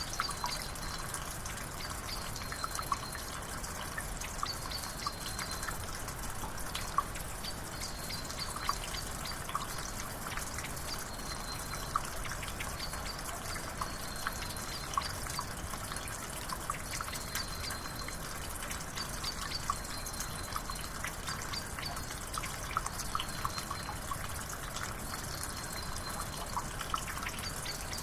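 Water trickling and dripping with a steady hiss and many small splashes, while a bird gives a short high note over and over, every second or two.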